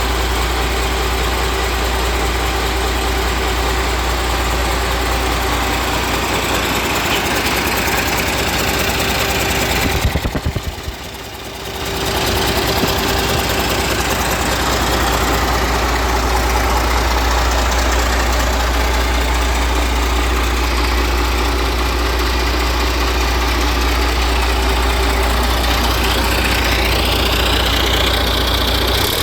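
Caterpillar diesel engine running at a steady idle with a knocking beat. About ten seconds in it falls away briefly into separate slow pulses, then picks back up to a steady run.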